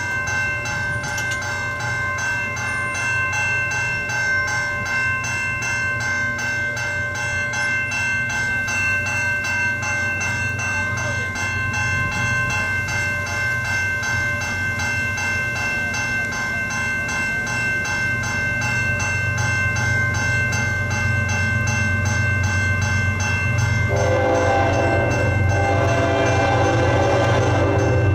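Railroad crossing bells ringing steadily while a CN locomotive approaches, its low rumble building over the second half. The train horn sounds in long blasts over the last few seconds.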